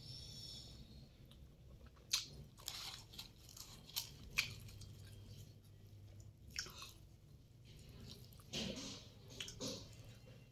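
A person chewing a mouthful of food close to the microphone: soft mouth sounds with a few sharp crunchy clicks, the loudest about two seconds in and twice around four seconds, with more chewing near the end.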